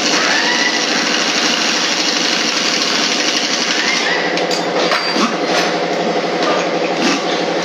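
Steady machinery noise, loud and continuous, with a few sharp clicks and two brief rising whines.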